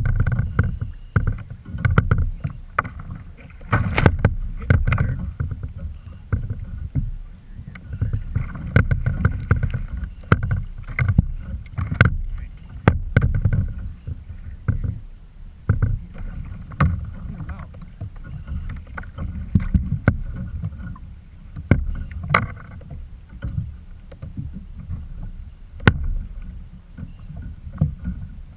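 Kayak on the water: low sloshing and rumble against the hull, broken by frequent irregular knocks and clicks on the hull and gear.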